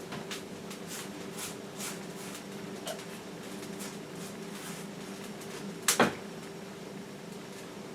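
Scattered light clicks over a steady hum, with one sharp double knock about six seconds in.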